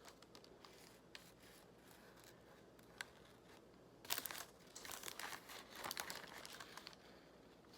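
Faint crinkling and rustling of fast-food paper packaging being handled, with a single tick about three seconds in and a longer stretch of crinkling from about four to seven seconds.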